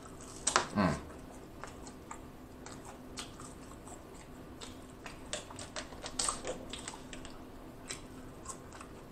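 Close-miked mouth sounds of a person eating french fries: scattered short wet clicks and smacks of chewing, with a louder bite about half a second in.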